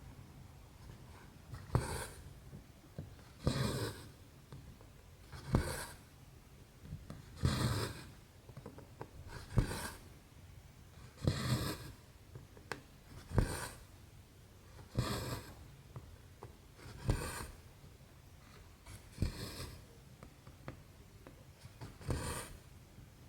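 Embroidery thread being drawn through 11-count cross-stitch canvas, a short swish about every two seconds as each stitch is pulled through.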